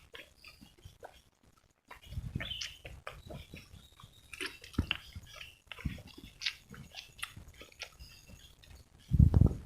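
Close-up chewing and crunching of raw terubuk (tebu telur), the edible flower shoot of Saccharum edule: irregular crisp crunches, with a louder, low crunch about nine seconds in.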